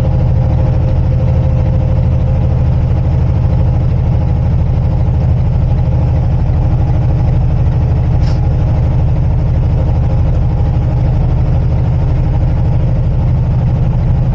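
Semi-truck's diesel engine running steadily as the truck climbs slowly, heard from inside the cab, with one short click about eight seconds in.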